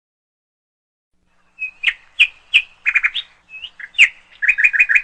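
A bird calling: after silence, a quick series of sharp chirps and short whistled notes begins about one and a half seconds in and goes on to the end.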